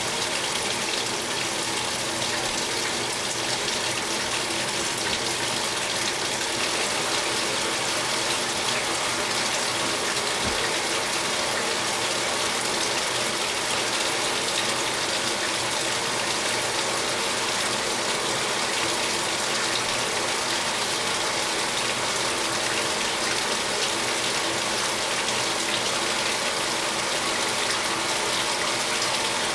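2015 Speed Queen 8 Series top-load washing machine filling: water pouring steadily into the tub, with a steady mechanical hum underneath.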